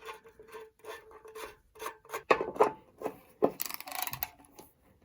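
Hand work on car parts: a run of small metallic clicks, knocks and rubbing scrapes, with a longer scraping rasp about three and a half seconds in.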